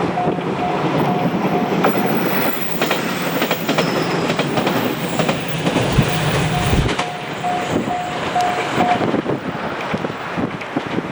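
A train passes a level crossing, with wheels clicking over the rail joints. The crossing's warning bell rings at an even two to three strokes a second. The bell is drowned out by the train in the middle and rings clear again until near the end.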